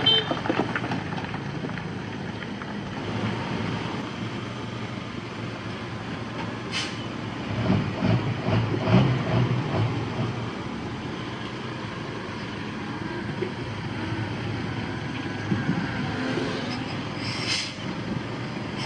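Heavy diesel earthmoving machinery running steadily, with a louder low rumble for a couple of seconds around the middle and two short, sharp high-pitched sounds.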